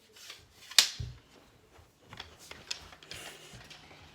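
Handling noise: a sharp snap just under a second in, followed at once by a low thump, then scattered light clicks and rustling as things are moved about.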